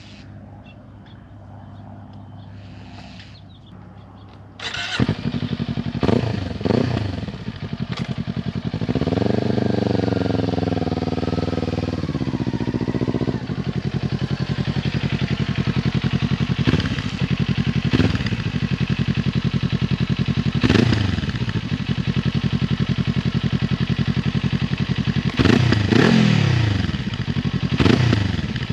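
2021 Kawasaki Ninja 400's parallel-twin engine through an Akrapovic carbon-fibre slip-on exhaust, idling and being revved. It is quieter for the first few seconds, then louder. About 9 seconds in comes one long rev that rises and falls, followed by several short, sharp throttle blips over a steady idle.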